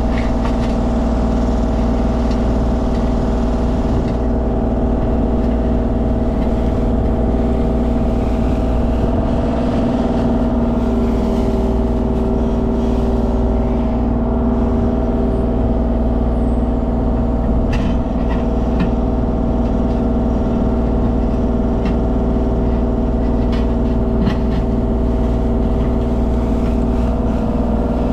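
Mini excavator's diesel engine running steadily under work, with a few short sharp clicks and knocks.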